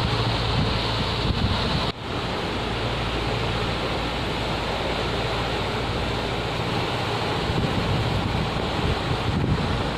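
Wind buffeting the microphone over rushing water and waves, as heard aboard a moving boat, with a steady low rumble underneath. The sound drops out for an instant about two seconds in.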